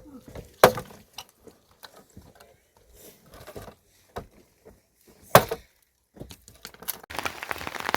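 Scattered sharp knocks and clicks in near quiet, two of them loud: one about a second in and one a little past five seconds, tagged as wood. Near the end, the steady hiss of rain starts suddenly.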